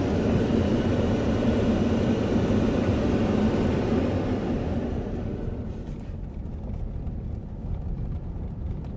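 Truck running, a steady rumble that is loud at first and then dies down about halfway through.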